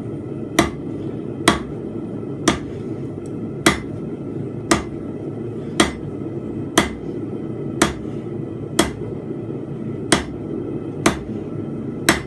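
Hand hammer striking hot small steel stock on an anvil about once a second, a dozen strikes. The anvil's ring is damped by magnets underneath. The strikes sit over the steady running of a gas forge.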